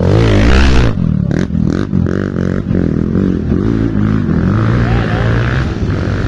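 Off-road motorcycle engine revving up and down repeatedly, loudest in the first second.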